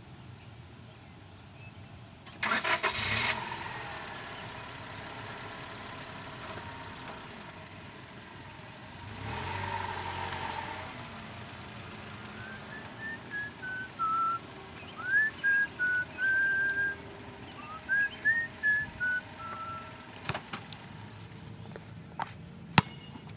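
Car sounds: a short loud burst as an engine starts, then the engine running and a swell as the car moves off or passes. Partway through, a string of short whistled notes, some sliding up or down, runs for about seven seconds, followed by a few sharp clicks near the end.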